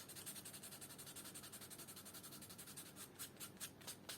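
Sandpaper rubbed quickly back and forth over a scarred patch of leather, smoothing the glued surface before paint: faint, rapid scratchy strokes that turn into fewer, separate strokes near the end.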